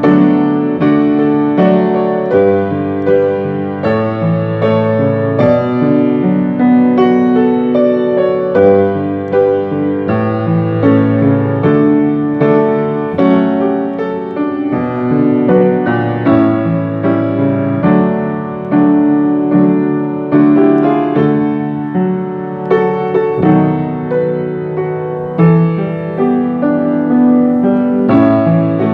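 Piano or keyboard playing a slow, gentle hymn accompaniment, sustained chords changing about once a second, as background music for prayer.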